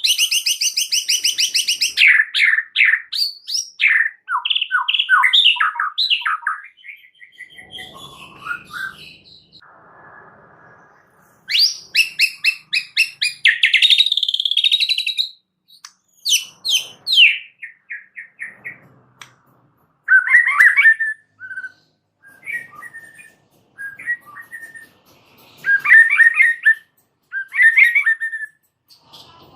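White-rumped shama singing a long, varied song: fast high trills and runs of rapidly repeated notes, in phrases broken by short pauses, with shorter, lower phrases in the second half.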